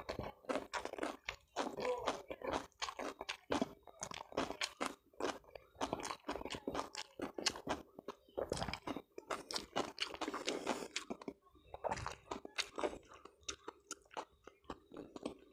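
A person chewing and crunching food close to the microphone: a quick, irregular run of wet clicks and crunches.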